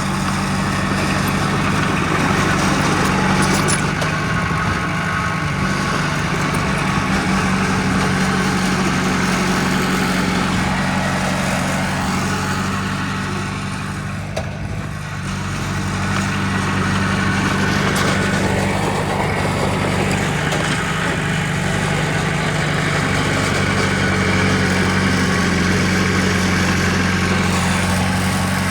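Heavy diesel engine of earthmoving machinery running steadily, easing off briefly about halfway through and then picking up again.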